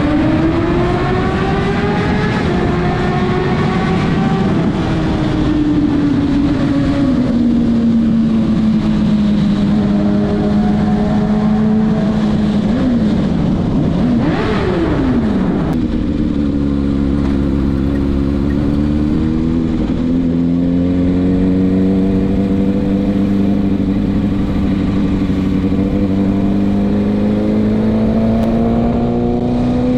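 Kawasaki ZX-6R's inline-four engine through a Leo Vince SBK titanium exhaust, revs climbing at the start and then holding steady at cruise. About halfway through the revs drop and rise sharply twice in quick succession, then settle to a steady cruise that slowly climbs again near the end.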